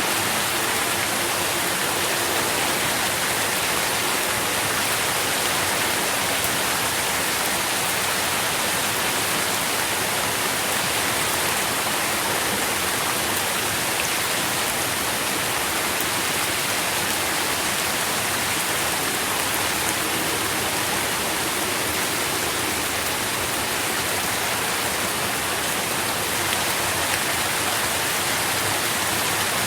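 Steady rain falling, an even hiss of pattering drops with no change.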